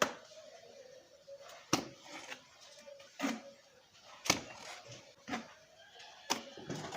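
Cement mortar being thrown onto a brick wall with a trowel: a series of about six sharp slaps, roughly one a second.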